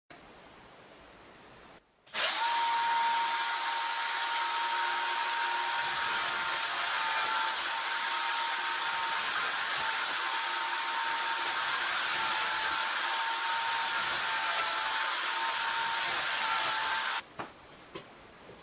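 Electric drill switched on about two seconds in, spinning up quickly and then running at a steady high speed with a whine, before stopping abruptly near the end. A couple of small clicks follow.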